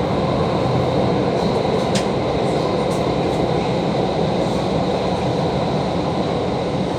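Doha Metro train running: a steady, loud rumble and hiss with a faint constant high whine and a single click about two seconds in.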